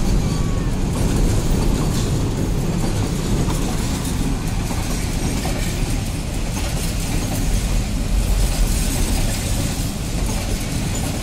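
Container freight train rolling past at close range: a loud, steady rumble of the wagons' wheels running on the rails.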